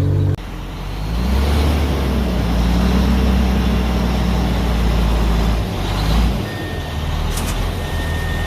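Dump truck's diesel engine running under load, revving up about a second in, holding steady, then easing off near six seconds. A steady high-pitched tone joins after that.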